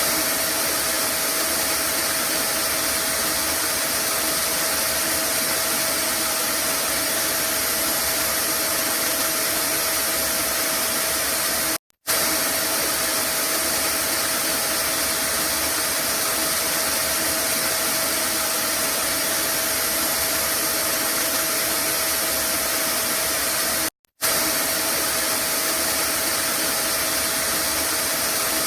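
Vacuum cleaner running steadily, a rush of air with a steady motor whine. It cuts out for a split second twice, about twelve seconds apart, and comes straight back.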